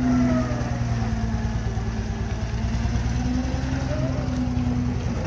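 Motor vehicle engine running close by at a steady low speed, its pitch drifting slightly down and back up.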